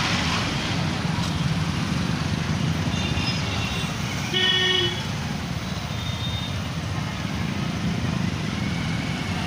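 Steady engine and road noise of a motorcycle riding through city traffic. A vehicle horn honks once for about half a second, four seconds in, with fainter horn toots just before it.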